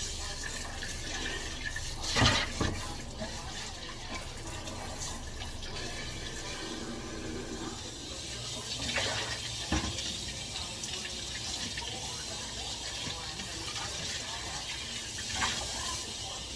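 Tap water running steadily into a sink while dishes are washed, with a few sharp clatters: a pair about two seconds in, another pair about nine seconds in, and one near the end.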